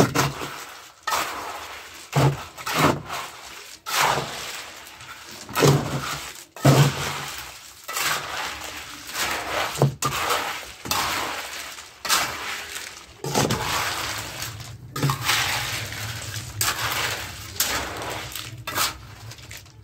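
A shovel scraping and rattling through gravel and rubble in repeated strokes, about one a second, some ending in a dull thud as a load is tipped.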